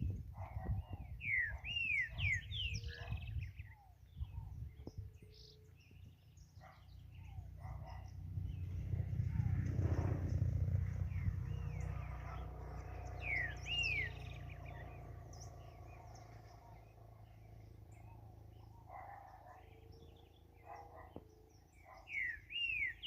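Green-winged saltator (trinca-ferro) singing short phrases of clear, curved whistles in three bouts: near the start, around the middle and at the very end, with other faint chirps between. A low rumble swells and fades in the middle.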